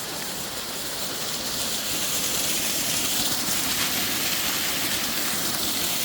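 Small waterfall rushing steadily, a constant hiss of falling water that grows a little louder over the first two seconds.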